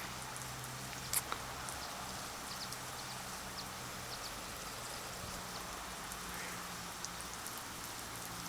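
Water spray from a lawn sprinkler pattering steadily like light rain, with a few brief taps of drops.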